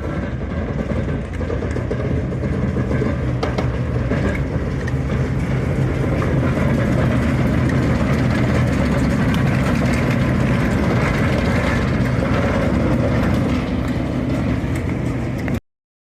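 A heritage railway train running on the rails: a steady, loud rumble with scattered clicks of the wheels over the track, cutting off suddenly near the end.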